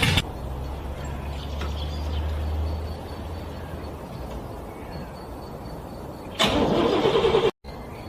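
Car starter motor cranking a cold engine in rapid pulses that stop just as the sound begins, then a low steady rumble that fades about three seconds in. A second burst of cranking comes about six and a half seconds in and is cut off abruptly after about a second, the engine not catching.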